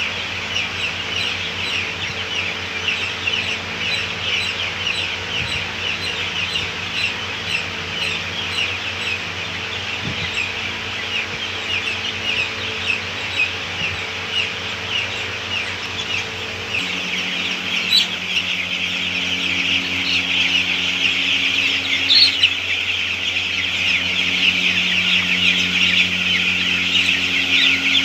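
A large flock of poultry-farm chickens calling all at once, a dense, continuous high cheeping, over a steady low hum that changes abruptly about 17 seconds in.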